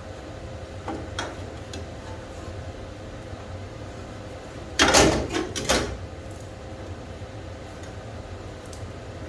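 A short burst of clattering, three or four quick noisy strokes about five seconds in, over a steady low hum, with a few light clicks before it.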